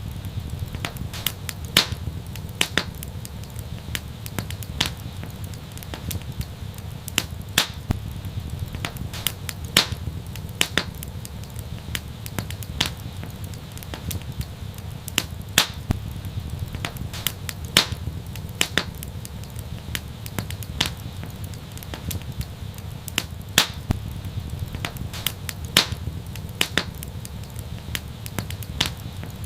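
Fire in an outdoor fireplace crackling, with sharp pops at irregular intervals, one to three a second, over a steady low rumble.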